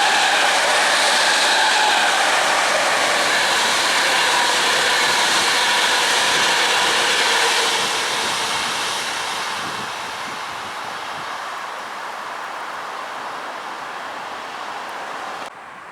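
A train passing on the line, loud for about eight seconds and then fading away as it moves off. The sound drops suddenly just before the end.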